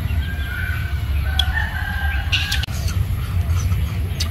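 A bird calls a few short, level-pitched notes in the first two and a half seconds, over a steady low rumble. A few sharp clicks of a spoon against dishes come in between.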